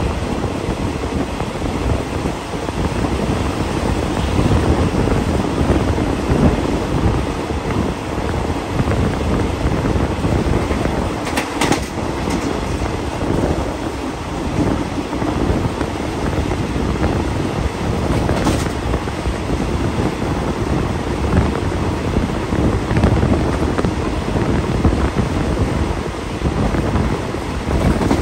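Steady running noise of a moving passenger train, heard from an open carriage window: wheels rolling on the rails and the carriage rumbling, with wind buffeting the microphone.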